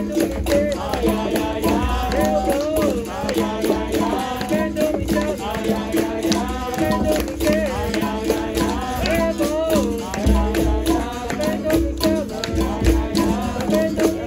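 Capoeira roda music: berimbau with caxixi rattle and hand percussion keeping a steady rhythm under voices singing.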